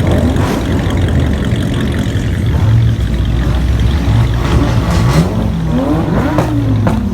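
Car engines running, with revving that rises and falls in pitch in the second half.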